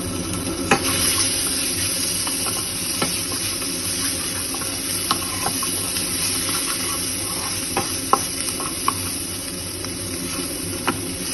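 Onions, ginger-garlic paste and chopped green chillies sizzling in hot oil in a kadai while being stirred, with scattered sharp clicks of the spatula against the pan.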